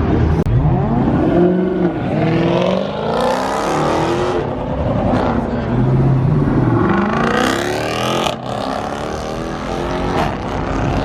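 Car engines accelerating hard past, their pitch climbing and dropping through the gears, once about a second in and again past the middle.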